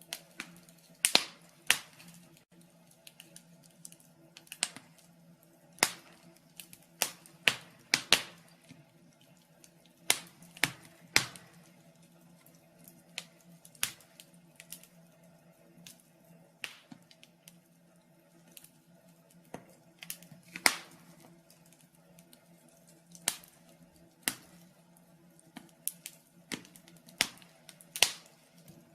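Fire crackling in a fireplace: irregular sharp pops and snaps, sometimes several close together, over a faint steady low hum.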